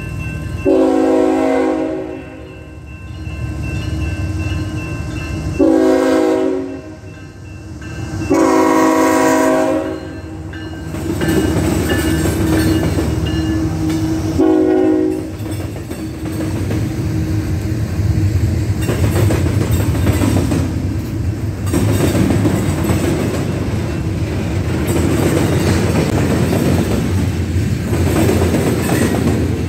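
Diesel freight locomotive's air horn sounding four blasts for the grade crossing, three long and a final short one. The locomotive and freight cars then roll through with a steady rumble and clickety-clack of wheels over the rail joints.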